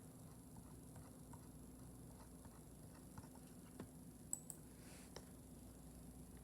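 Near silence: a faint steady low hum, with a few small clicks a little past the middle.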